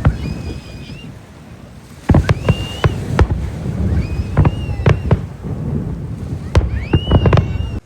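Fireworks display: a quieter opening, then from about two seconds in a dense run of sharp bangs over a low rumble, with short rising whistles in between.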